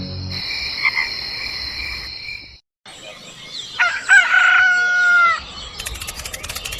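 A steady high-pitched chirring that cuts off suddenly, then about four seconds in a rooster crowing once, one held call lasting about a second and a half.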